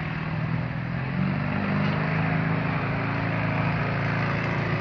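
A pulling tractor's engine running steadily, rising a little in pitch and level about a second in.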